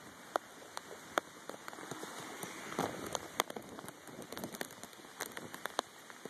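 Rain falling during a hurricane: a steady hiss scattered with many sharp ticks of individual drops, swelling briefly about three seconds in.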